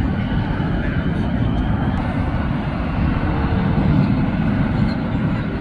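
Steady low rumble of a jet airliner's engines.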